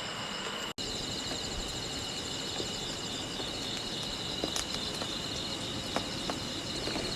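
Crickets and other insects chirping in a steady, pulsing chorus, with a brief dropout under a second in and a few faint clicks.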